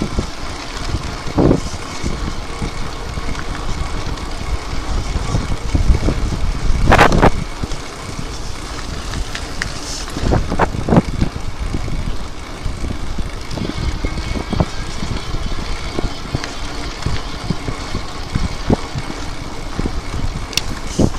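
Riding an electric bike: wind buffeting the microphone over the rumble of the Michelin Mambo 20-inch BMX tyres rolling over the ground. The bike knocks and rattles over bumps, loudest about seven seconds in.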